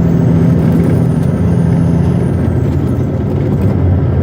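Western Star logging truck's diesel engine running steadily, heard inside the cab over cab rattle and road noise, with a faint high whine that climbs and then falls away about three seconds in.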